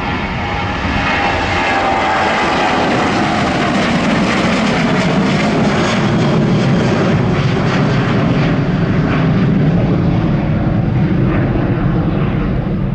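Boeing 737-800's CFM56-7B jet engines at takeoff power: a high whine falling in pitch over the first few seconds, giving way to a loud, steady low rumble as the airliner climbs away.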